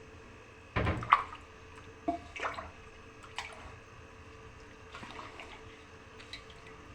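Scattered drips and splashes of liquid with a few short light knocks, the loudest about a second in.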